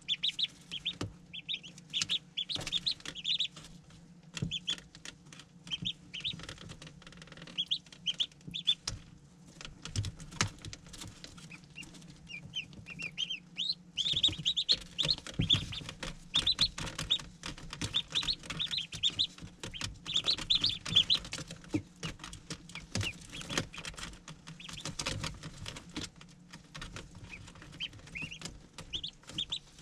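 Ducklings peeping in quick clusters of short, high calls, with many small taps and a pattering running underneath.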